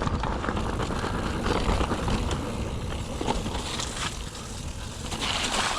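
Mountain bike riding over a rough trail: tyres rolling and the bike rattling, with a louder rush of noise near the end.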